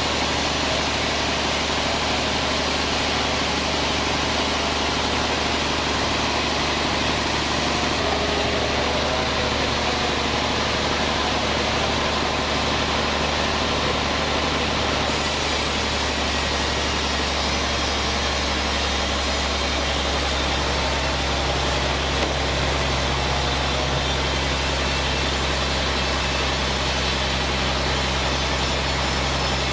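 Sawmill band saw machinery running steadily, a continuous mechanical drone with a deeper hum that grows stronger about twenty seconds in.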